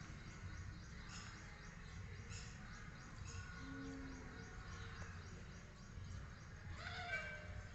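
Parrot giving faint short chirps about once a second, then a louder gliding call near the end, over a steady low background hum.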